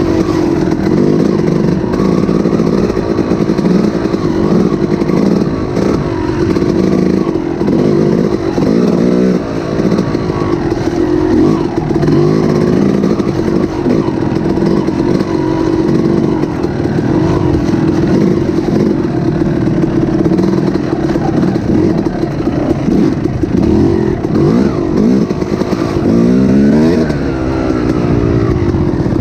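A motor or engine running steadily and loud, its pitch wavering, with a brief rise and fall in pitch near the end.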